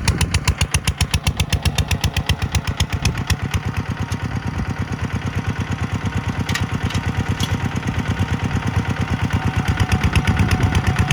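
Tractor diesel engine running with a steady, even chugging pulse of about six beats a second.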